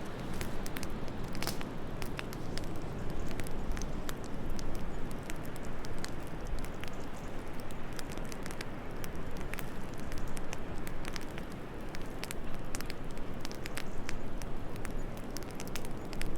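Wood fire crackling in a fireplace, with many small irregular pops and snaps over a steady low rush of wind.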